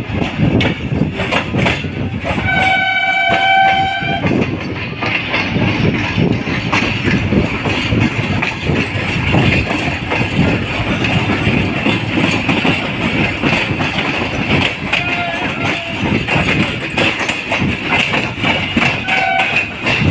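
Passenger train running, heard from an open coach window: steady rumble and clickety-clack of wheels on rails. The locomotive horn sounds once for about two seconds a couple of seconds in, then gives shorter, fainter blasts near the end.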